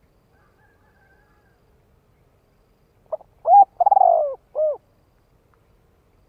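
Spotted dove cooing one phrase of four notes, about three seconds in. The first note is short, the second is clear, the third is long and rolling, and the last is short and falling.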